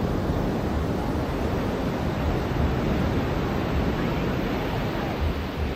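Ocean surf washing onto a beach: a steady rush of noise, with an uneven low rumble underneath.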